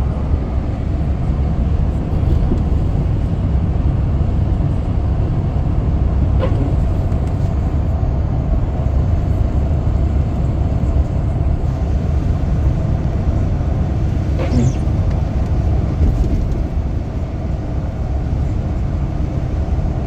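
A car being driven: steady low rumble of engine and tyres on the road, with a couple of faint brief ticks.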